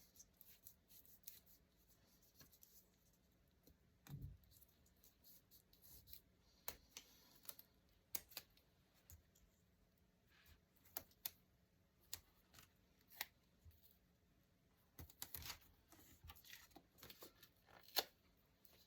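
Faint paper-crafting sounds: scattered light clicks, taps and rustles of paper and small tools being handled, with a soft thump about four seconds in and a sharper click near the end.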